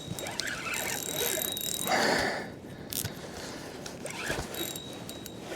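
Fishing reel being cranked, its gears ratcheting while a hooked catfish is reeled in. There is a brief louder noise about two seconds in.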